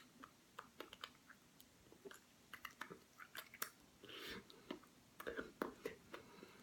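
A cat chewing, a run of irregular soft clicks and crunches, busier between about four and six seconds in.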